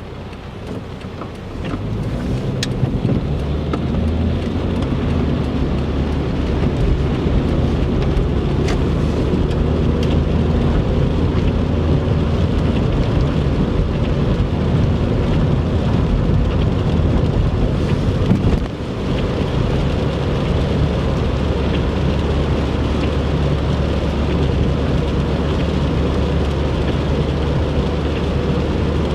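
Car driving on a wet interstate in heavy rain: steady road and tyre noise with rain on the car. It grows louder about a second and a half in, with a brief dip about two-thirds of the way through and a few faint sharp ticks.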